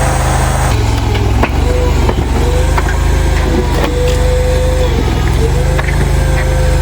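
A small skid-steer loader's engine running under load, with a whine that sags and recovers several times as the machine works. Scattered sharp cracks and knocks, as of wood breaking, are heard over it.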